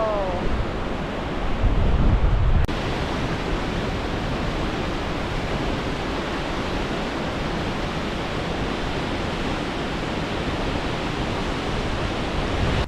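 Stanley Ghyll Force, a 60 ft waterfall, makes a steady loud rushing of falling water. There is a brief low rumble about two seconds in.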